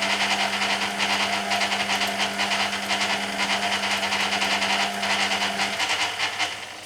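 Hoover Keymatic A3112 twin-speed washing machine in its final spin at about 1100 rpm: a steady motor hum over a rapid, even pulsing from the spinning drum. Near the end the hum drops out and the sound gets quieter.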